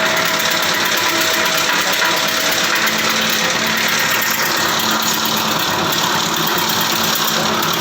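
Wood chipper machine running steadily, a continuous loud mechanical hum and rush of noise with no breaks.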